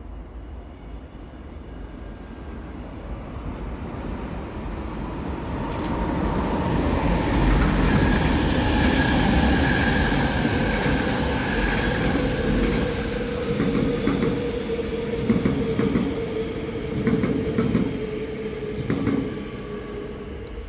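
Passenger train approaching and passing close by, building to its loudest about a third of the way in, with a steady whining tone over the rumble. In the second half come regular thumps of wheels crossing rail joints as the cars go by, then it fades near the end.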